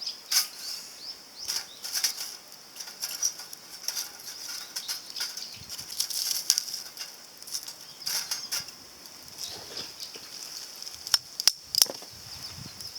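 Irregular crackling and snapping of a small wood fire burning in a compact titanium grill, with a few sharper knocks near the end.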